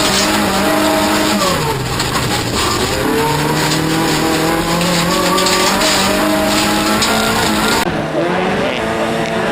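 Off-road racing car's engine running hard. Its pitch drops sharply about a second and a half in as the driver lifts off or shifts, then climbs back and holds under load, with tyre noise on loose ground. Near the end the sound turns suddenly duller.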